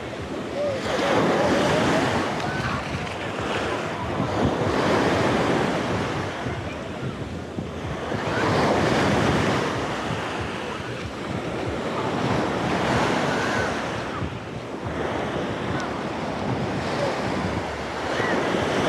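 Sea waves breaking on a beach, the surf swelling and falling back every few seconds, with wind buffeting the microphone.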